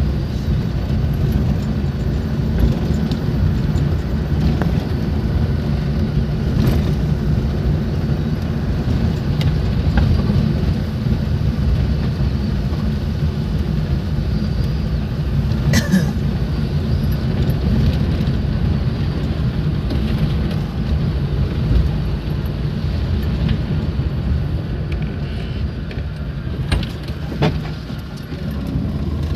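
A road vehicle driving: a steady low engine and road rumble, with a few short knocks and clicks along the way.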